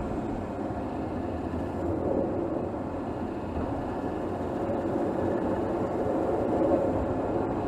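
Mercedes GLS 450's 3.0-litre turbocharged inline-six engine running steadily while driving, heard close up from under the hood.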